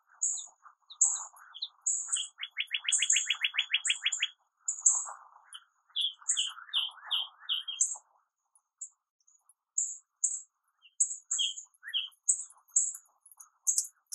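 Small birds calling: a steady string of high, thin chirps, with a fast trill of about a dozen notes two to four seconds in and a short run of lower chirps around six to eight seconds.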